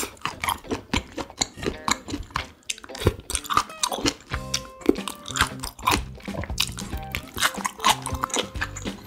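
Close-up chewing of chop steak in sauce: many short wet mouth clicks and smacks, over background music with held notes.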